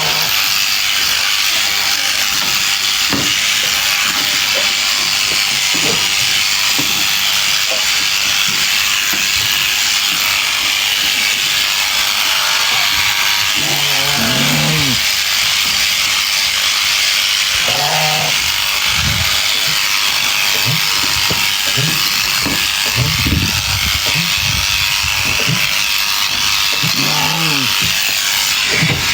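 Electric sheep-shearing clippers running steadily as they cut through the fleece. A sheep bleats a few times, about halfway through, a few seconds later and again near the end.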